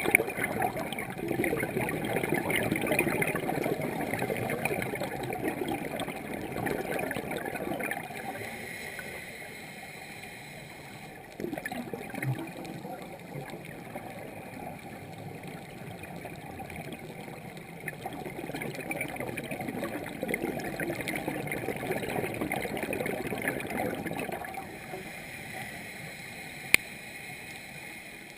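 Underwater bubbling and gurgling from scuba divers' breathing: exhaled bubbles swell and fade in long surges. A single sharp click comes near the end.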